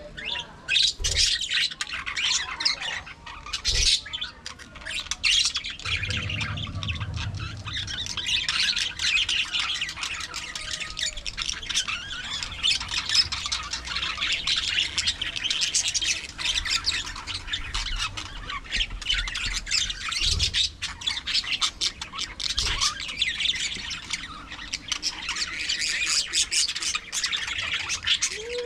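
A flock of budgerigars chattering together, a dense, continuous mix of warbling chirps and squawks.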